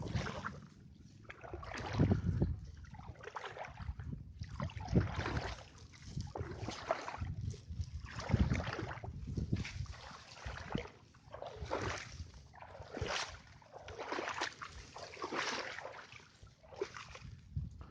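Water sloshing and splashing in a slow, uneven rhythm, one splash every one to two seconds.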